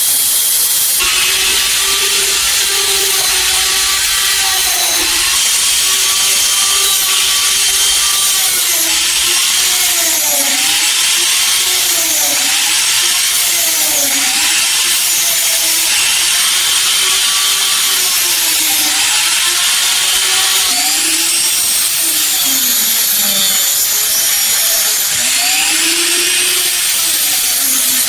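Small electric power tool running against the steel of a knife. Its motor whine dips in pitch again and again as it is pressed into the work, over a loud steady hiss.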